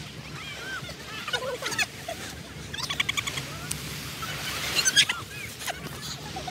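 Birds chirping and chattering in short bursts, loudest about five seconds in.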